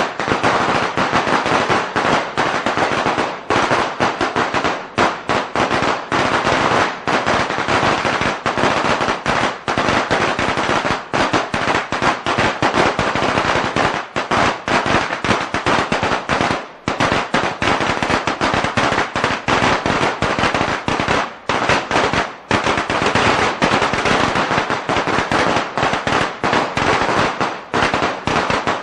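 A string of Chinese firecrackers going off in a dense, rapid crackle of bangs that runs on continuously, with a few brief lulls.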